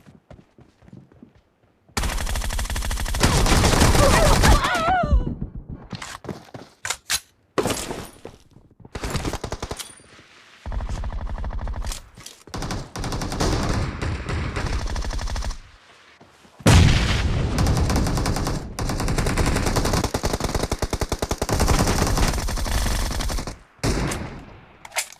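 Video game automatic gunfire, starting about two seconds in and going on in several long rapid bursts with brief pauses between them.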